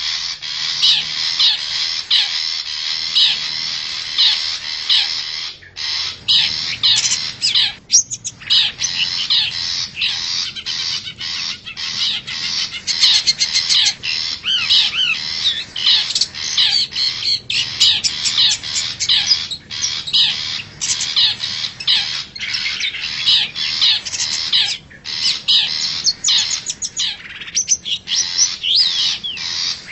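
Cendet (shrike) calling without pause: a rapid run of harsh chattering and squeaky notes, the lure call used by bird trappers to draw wild cendet close.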